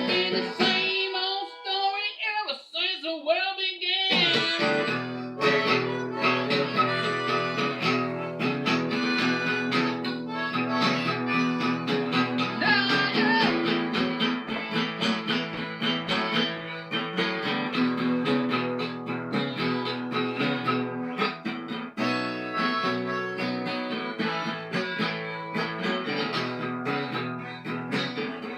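Harmonica (blues harp) playing along with plucked-string accompaniment. About a second in the strings drop out for a few seconds, leaving the harmonica alone with wavering, bent notes, before the strings come back in.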